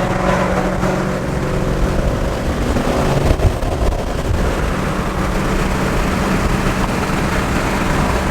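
Ford Mustang's Coyote V8 engine running steadily at a constant pitch over a heavy low rumble, with a brief bump in loudness about three and a half seconds in.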